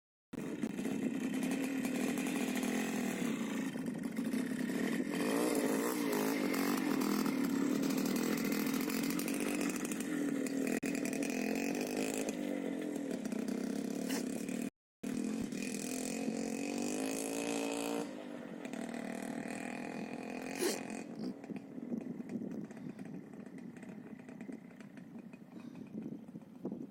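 Minsk motorcycle's two-stroke single-cylinder engine running with a buzzing note, its pitch rising and falling as it is revved. It drops to a lower level about two-thirds of the way in, and there is a brief break just before the middle.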